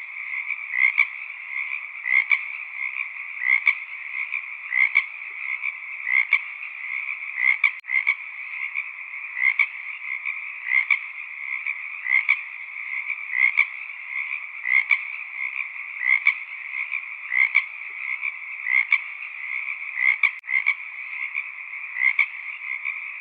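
Frog chorus: a dense, steady trill of many calling frogs, with louder individual calls standing out at a regular pace, about every second and a bit.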